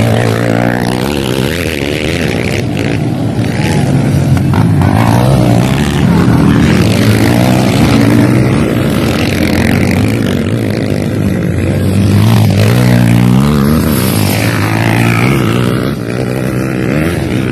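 Motocross dirt bike engines revving hard, their pitch rising and falling again and again as the bikes accelerate and shift around the track.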